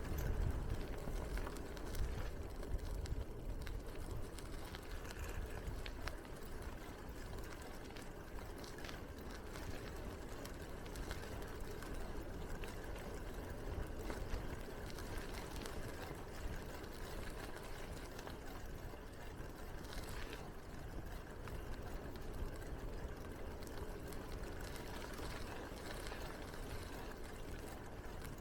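Steady rolling noise from a bicycle ride: tyres running on the path under a low rumble, heavier in the first few seconds, with a few faint ticks.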